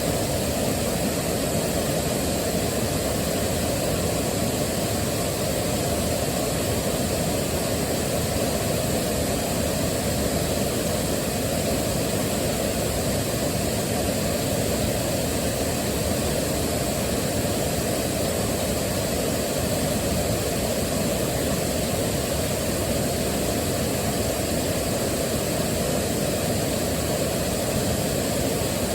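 Waterfall: water rushing steadily, the sound heaviest in the low range.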